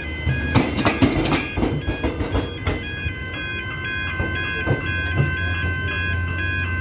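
Train wheels clattering over the rail joints as an X'trapolis electric train pulls away, fading out about three seconds in. Throughout, a level crossing's electronic warning bell rings steadily in an even alternating pattern.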